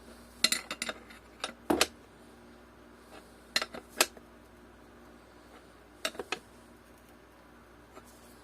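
Metal nuts and small hardware clinking and tapping as they are handled and fitted, in four short clusters of sharp clicks a second or two apart.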